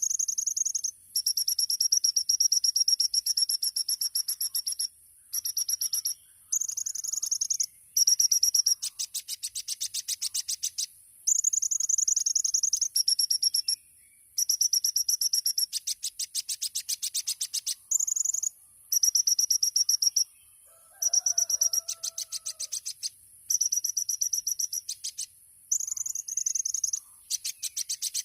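Kolibri ninja sunbird singing: high-pitched phrases of sharp, rapid notes and fast trills, each lasting one to three seconds, separated by short pauses. About two-thirds of the way through, a fainter, lower call is heard.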